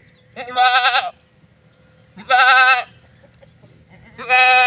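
Goat bleating loudly three times, each call a quavering, wavering cry of under a second.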